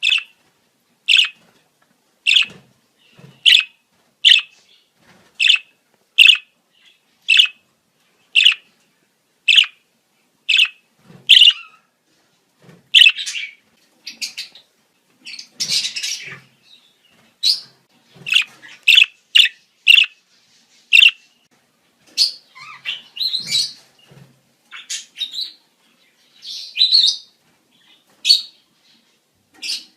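Budgerigars chirping in breeding-season calling: short sharp chirps about once a second at first, then a dense burst of chatter and more varied, irregular calls in the second half.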